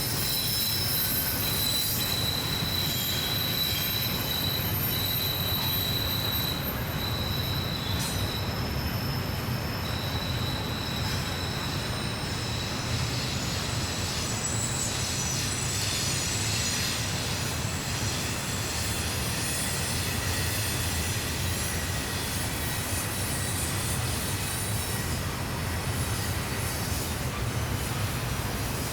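A long Norfolk Southern freight train rolling around the tight Horseshoe Curve with a steady low rumble, its wheel flanges squealing against the rails in high, sustained tones that fade and return.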